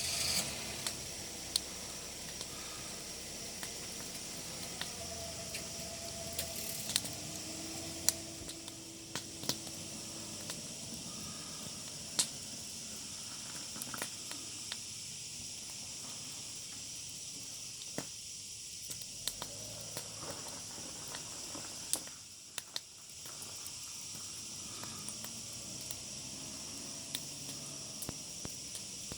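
Wood fire crackling, with irregular sharp pops and snaps over a steady high hiss.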